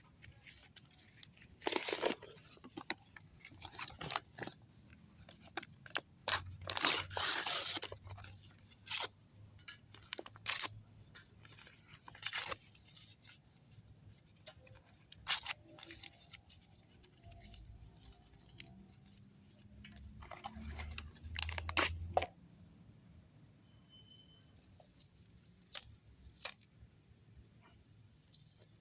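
Twigs and kindling being snapped and handled: irregular crunches, scrapes and sharp snaps, with clusters about 2 seconds and 7 seconds in and again near 22 seconds. A faint steady high-pitched tone runs underneath.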